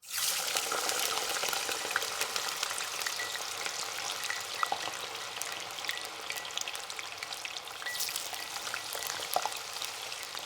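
Bacon frying in a pan: a steady sizzle full of small, quick crackling pops.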